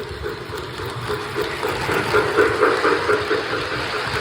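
Railway locomotive running: a steady engine hum with a pulsing tone that swells about halfway through.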